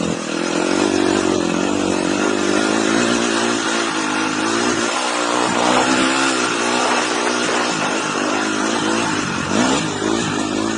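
Dirt bike engine running hard, its pitch rising and falling as the throttle is worked, under a steady rushing noise.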